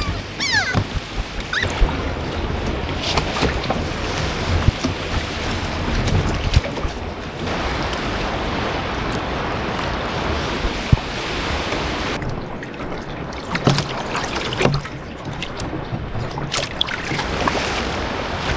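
Sea waves washing and splashing around a raft, with wind buffeting the microphone and scattered sharp knocks.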